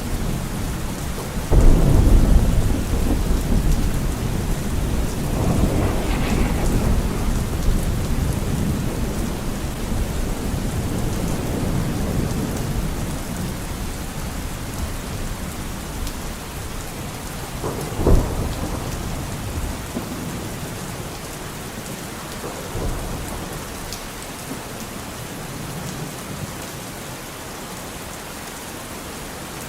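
Steady rain with thunder: a sudden thunderclap near the start rolls into long low rumbling, a second short crack comes just past the middle, and the rumble dies down toward the end.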